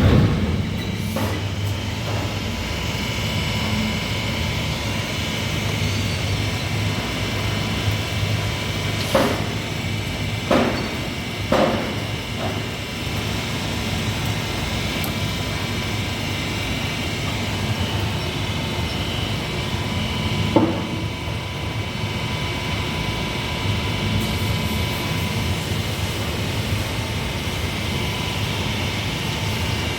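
Machinery in a flange-making workshop running steadily, with a low hum, and four sharp metal knocks partway through.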